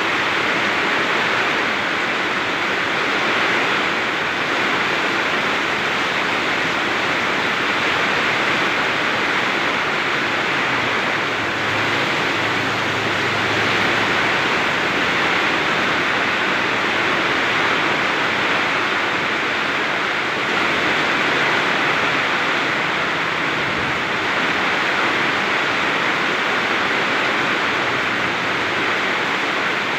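Very heavy rain pouring down in a steady, unbroken hiss.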